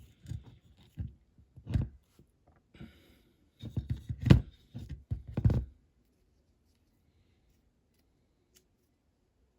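Masking tape being handled and applied to a diecast van body on a workbench: a run of short clicks, rustles and knocks that stops about six seconds in.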